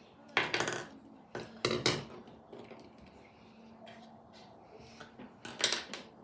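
Kinetic sand being cut and squeezed, with a tool scraping on its tray: three short crunchy bursts, one near the start, one about two seconds in and one near the end.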